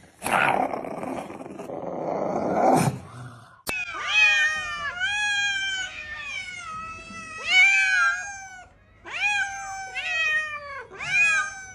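A cat meowing over and over, about ten drawn-out meows in quick succession, each bending in pitch. Before that comes about three seconds of harsh, noisy sound that ends with a sharp click.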